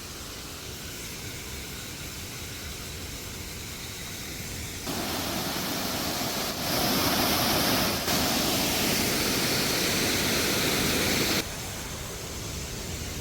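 Waterfall rushing steadily, a constant roar of falling water that gets louder in sudden steps about five and seven seconds in, then drops back abruptly near the end.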